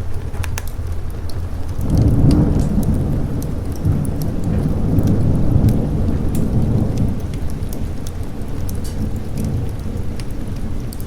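Thunder rumbling over steady rain. A rolling peal swells about two seconds in and fades after about five seconds, with the patter of raindrops throughout.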